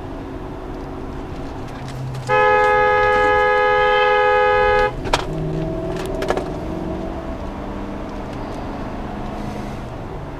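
A car horn blown in one long, steady blast of about two and a half seconds, two notes sounding together, over the car's road and engine noise. Soon after it stops come two sharp clicks or knocks about a second apart.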